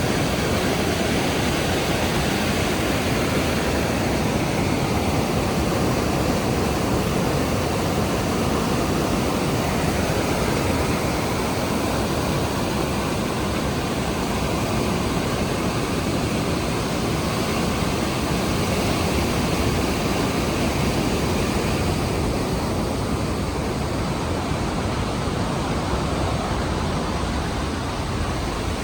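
Steady roar of the Rhine Falls, a dense, even rush of falling water.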